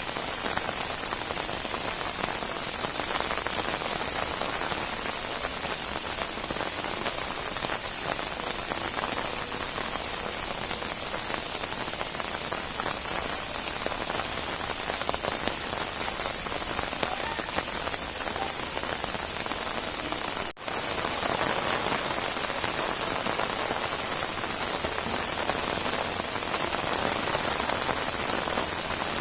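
Rainstorm: steady rain falling, an even hiss of dense pattering drops. It cuts out for a split second about two-thirds of the way through, then resumes slightly louder.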